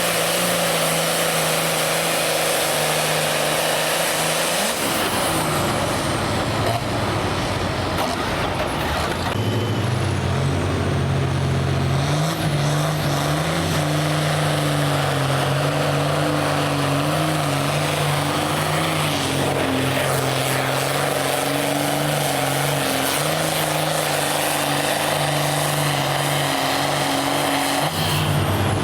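Modified farm pulling tractor's engine running loud and hard, its pitch dropping about five seconds in, then stepping up twice and holding with small wobbles under load.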